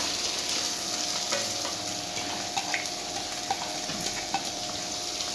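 Chopped onions frying in hot coconut oil, a steady sizzle, stirred in the pan with scattered small clicks and scrapes of the utensil.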